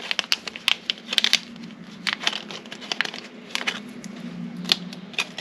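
Irregular sharp clicks and light rattles of small metal tools and lock parts being handled and set down on a workbench, over a steady low hum.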